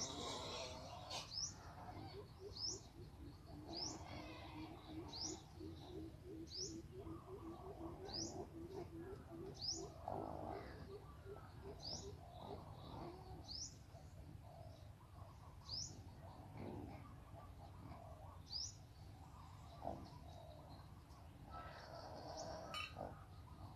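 A songbird faintly repeats a short, high, rising chirp about every second and a half. Between about three and ten seconds in, a quick run of low, evenly spaced hooting notes from another animal joins it, over a faint low rumble.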